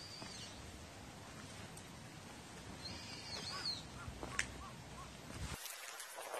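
Faint outdoor quiet with a few short, high bird calls: one near the start and another, warbling up and down, around three seconds in. There is a single sharp click about four seconds in.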